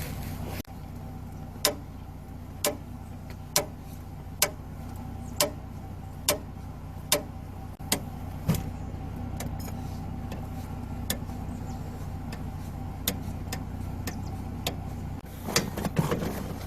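Jeep Gladiator's engine idling with a steady hum, under sharp clicks about once a second that later turn fainter and less regular. A short burst of rustling and knocking comes near the end.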